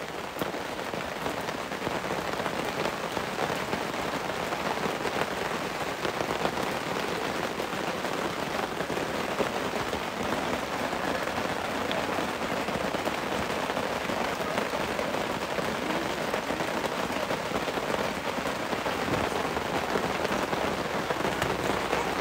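Heavy rain falling steadily, heard from under a tent shelter, with a dense, even hiss of drops on the canopy and sodden ground.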